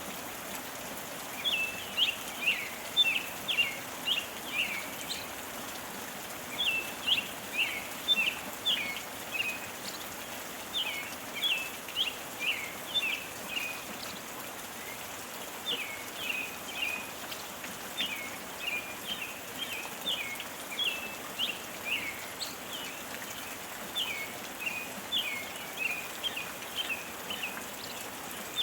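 Steady gentle rain, with a songbird singing over it in repeated bouts of quick, short chirping notes a few seconds long, separated by brief pauses.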